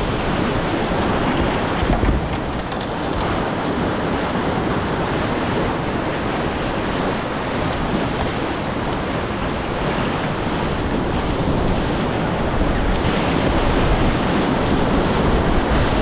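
Whitewater of a fast mountain river rushing and splashing, a loud, steady wash of noise, with wind buffeting the microphone.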